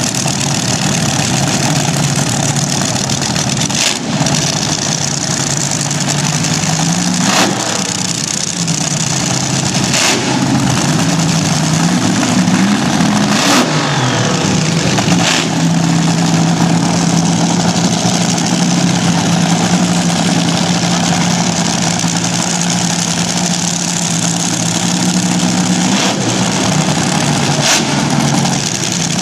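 Vintage slingshot dragster's open-exhausted engine running very loud, revved up and down in the first half and then held at a steady, fast idle, with a few sharp cracks along the way.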